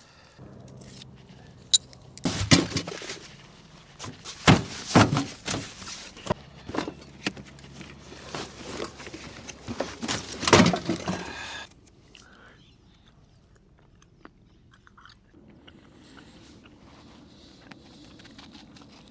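Irregular crunching and clicking for about ten seconds, loudest in sharp bursts, stopping suddenly and leaving only a faint background.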